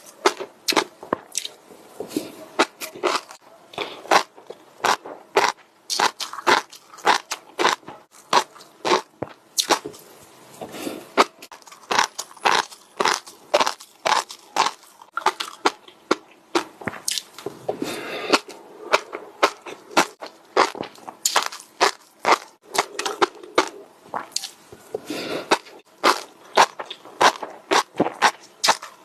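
Close-miked chewing of crunchy food: a steady run of sharp, crackling crunches, about two or three a second.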